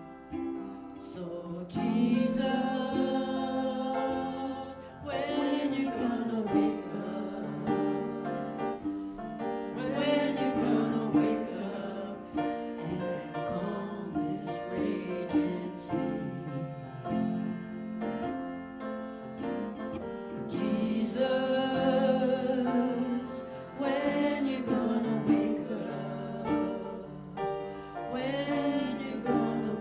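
Worship song performed by a church music team: voices singing with instrumental accompaniment.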